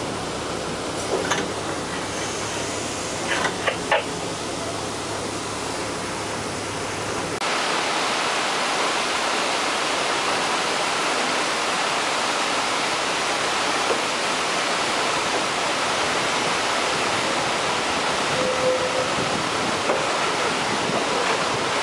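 A train running on its track: a steady low rumble with a few sharp clacks in the first seconds. After an abrupt cut about seven seconds in, it gives way to a louder, steady rushing noise.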